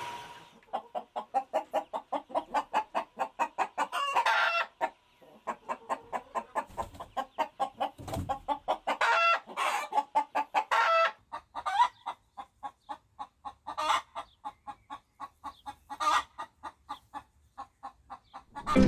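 Chickens clucking in quick runs of about five clucks a second, broken by a few louder, longer calls.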